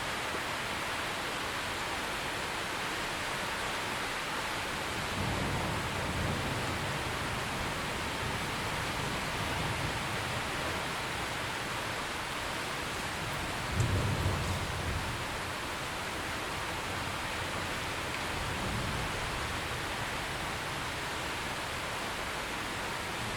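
Steady rain falling, with thunder rumbling beneath it: a low rumble from about five seconds in, a louder, sharper peal about fourteen seconds in, and a fainter rumble near the end.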